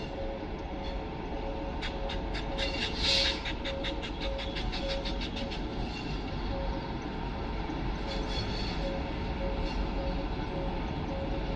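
Coaches of a passing LHB passenger train rolling by, with steady rumble. From about two to six seconds in, the wheels click in a quick run of about five a second, with a brief high squeal near three seconds.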